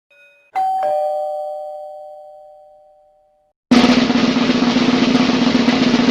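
Doorbell chime playing a two-note ding-dong, a higher note then a lower one, fading out over about three seconds. About two-thirds of the way through, a loud, steady snare drum roll starts.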